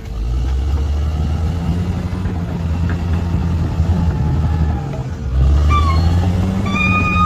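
Bulldozer's diesel engine running, dipping briefly about five seconds in and then picking up again. A high steady squeal starts near the end.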